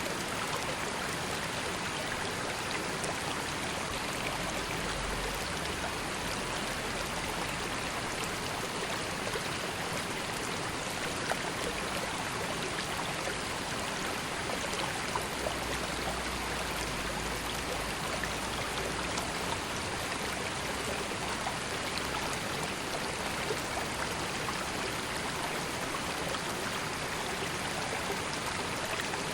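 River water flowing steadily, an even rush with small splashes and trickles through it.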